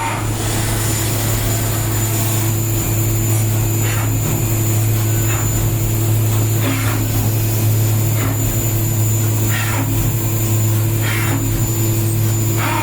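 CNC milling machine running: a steady low hum and a thin high whine, with short bursts of hiss every second or two.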